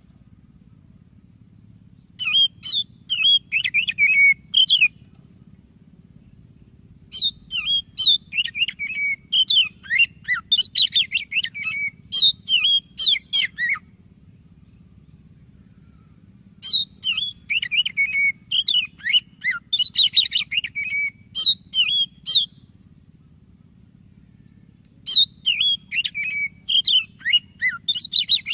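White-breasted Oriental magpie-robin (kacer dada putih) singing: four bouts of a few seconds each of fast, varied whistles and sharp chattering notes, with pauses of two to three seconds between them. A steady low hum runs underneath.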